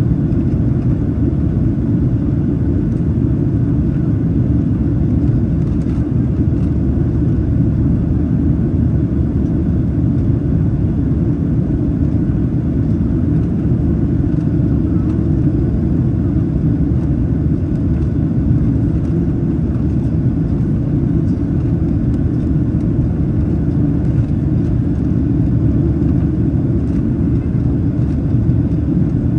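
Steady cabin noise of a Boeing 737-800 in its climb after takeoff: an even, low roar of its CFM56-7B engines and airflow, heard from inside the cabin.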